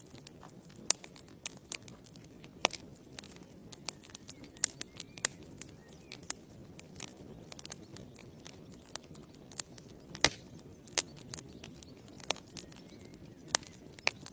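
Wood fire burning in a fireplace: logs crackling with irregular sharp pops, a few of them louder, over a steady low hiss of the flames.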